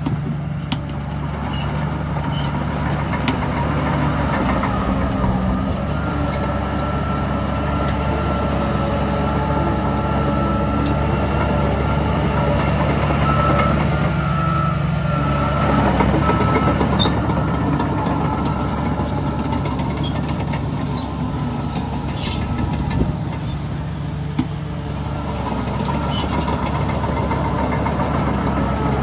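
Heavy diesel earthmoving machinery, a bulldozer and dump trucks, running steadily, with a thin high whine and scattered small squeaks and clicks over the engine drone, which swells a little around the middle.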